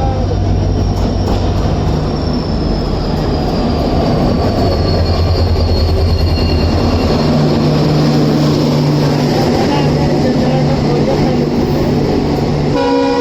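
Indian Railways express train running along the track with a steady low hum and a high whine that slowly falls in pitch a few seconds in. A train horn starts sounding just at the end.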